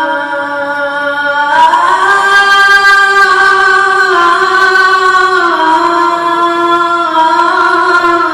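A blind boy's high voice reciting the Quran in melodic, chanted style, drawing out long held notes. The pitch glides up about a second and a half in and steps back down in two stages later.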